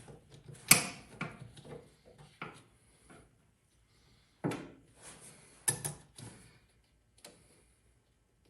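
Scattered clunks and knocks of tools and engine parts being handled and set down, about eight separate hits, the loudest about a second in.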